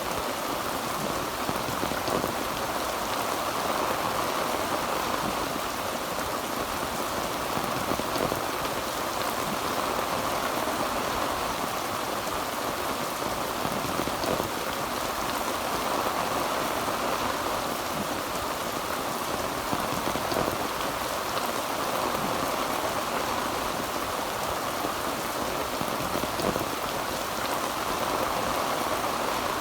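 Heavy rain pattering steadily on a tin roof, a dense, even wash of drops.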